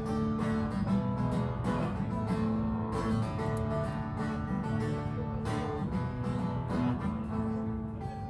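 Music with acoustic guitar strumming chords: the instrumental intro of a song.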